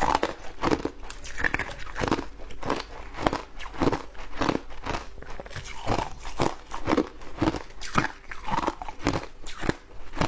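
Shaved ice being bitten and chewed close to the microphone: a steady run of crisp crunches, about two to three a second.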